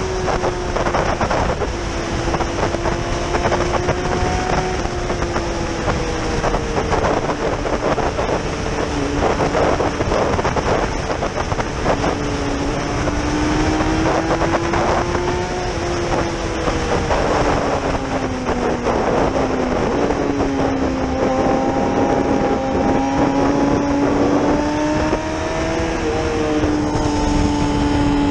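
Yamaha R6's inline-four engine running under way, its pitch rising and falling gently with the throttle. Wind rushes steadily over the camera microphone.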